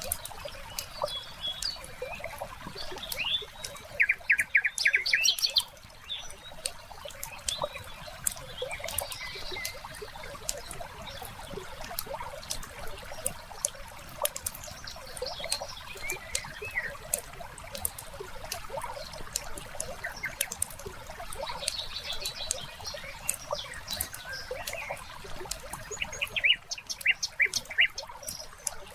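Layered nature ambience: a wood fire crackling with frequent sharp pops, over trickling water and birds chirping. A quick run of loud chirps comes about four seconds in and again near the end.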